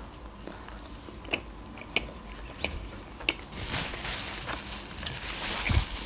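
Close-up chewing of a bite of soft mini burger, with scattered small wet mouth clicks. From about halfway a paper napkin rustles steadily.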